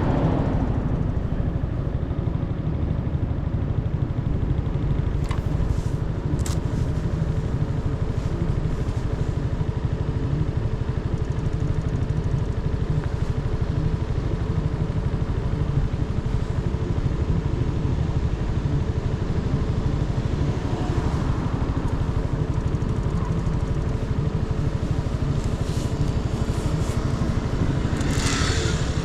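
Motorcycle engine idling steadily while the bike stands still. Wind noise on the microphone dies away at the start and builds again near the end, as the bike moves off.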